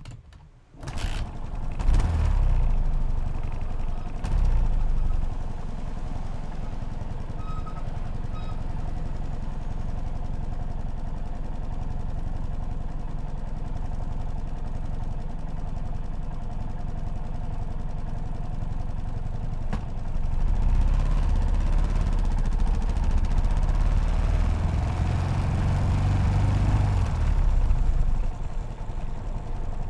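Yamaha SR500's air-cooled single-cylinder four-stroke engine firing up about a second in, then running steadily at idle. It picks up and runs harder from about twenty seconds in, then settles back down near the end.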